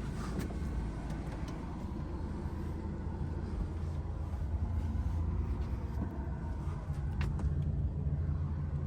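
DAF XF480 truck's PACCAR MX-13 six-cylinder diesel running with a steady low rumble that grows a little louder about halfway through. Two short clicks come through, one just after the start and one near the end.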